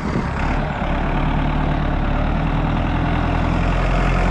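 Large diesel engine idling steadily, a deep even run with no change in speed.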